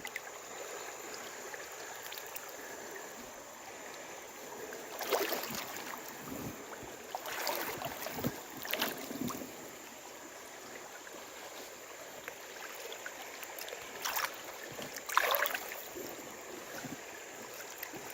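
Steady rush of a high creek with water sloshing and splashing in a few surges as someone wades through deep water.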